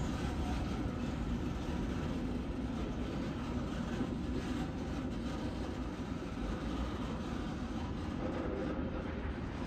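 Rake of QUBE hopper wagons rolling away along the track, a steady rumble of wheels on rail that fades slightly as the train draws off.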